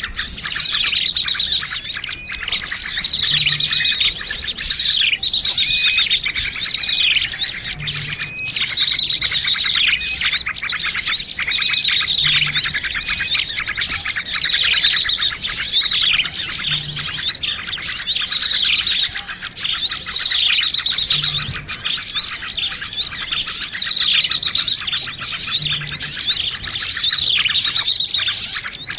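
A dense chorus of many small songbirds chirping and twittering over one another without a pause: a bird-lure (pikat) recording of noisy small birds, used to draw wild birds in.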